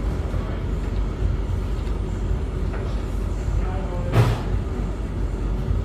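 Laundry machines running: a steady low mechanical rumble, with a single short knock about four seconds in.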